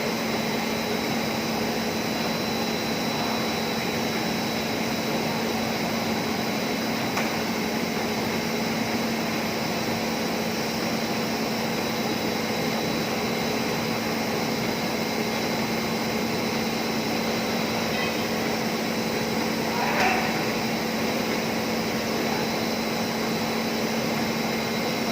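PP bag cutting machine running steadily with a constant hum and a few fainter steady tones. A brief louder rustle comes about twenty seconds in.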